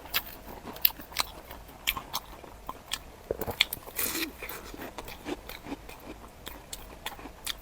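Close-miked biting and chewing of crunchy food: irregular sharp crunches, with one longer crackling crunch about four seconds in.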